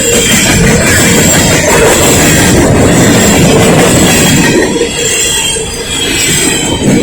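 Empty coal cars rolling by: a loud, steady rumble and clatter of steel wheels on the rails, with thin, steady high-pitched wheel squeal over it. The sound dips briefly near the end.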